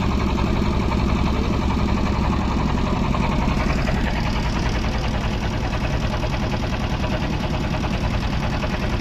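Engine of a motorised boat running steadily at an even speed.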